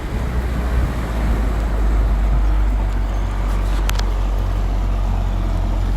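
Motorboat running underway, with wind rumbling on the microphone; the rumble grows about a second in and then holds steady.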